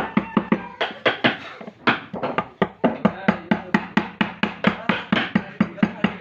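Rapid, steady hammering on wood, about four to five sharp knocks a second.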